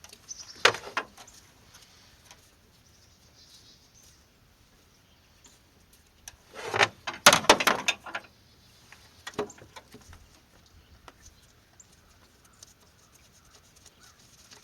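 Short bursts of metallic clicking and rattling from a socket wrench and loosened bolts as the throttle body bolts come out, the longest and loudest cluster about seven seconds in.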